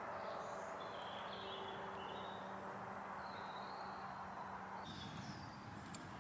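Small woodland birds chirping and singing in short phrases over a steady low hum, with a single sharp click near the end.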